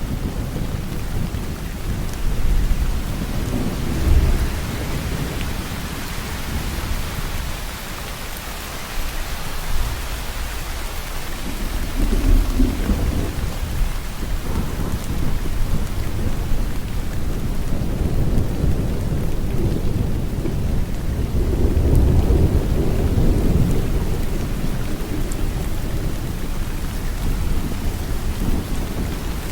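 Steady heavy rain hissing, with low rumbles of thunder rolling in and out, strongest about four seconds in, around twelve seconds in and again from about twenty-one to twenty-four seconds.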